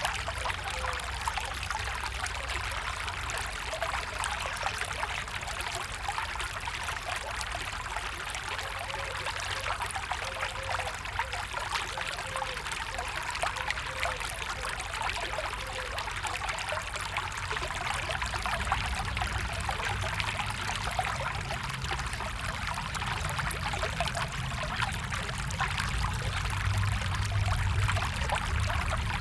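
Water in a small stream flowing and trickling steadily over stones, with a low rumble underneath that grows a little louder near the end.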